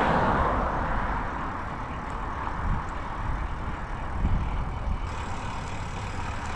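Road traffic passing, one vehicle loudest at the start and fading over the first couple of seconds, over an uneven low rumble.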